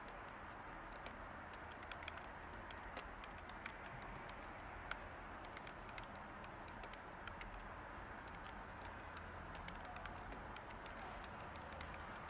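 Light, irregular clicking of computer keyboard typing over a steady faint white-noise hiss.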